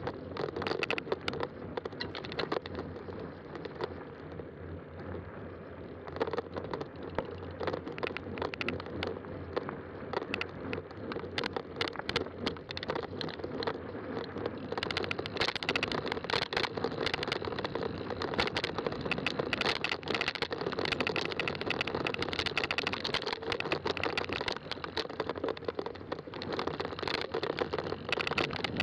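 Fat-tire mountain bike riding along a trail: steady rolling tire noise with frequent small clicks and rattles from the bike, a little rougher from about halfway.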